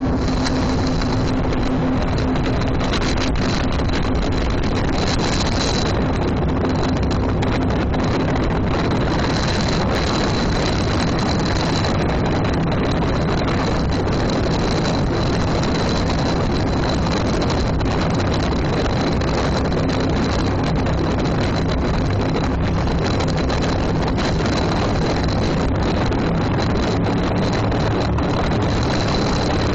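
Motorboat engine running steadily under way, with wind rushing over the microphone.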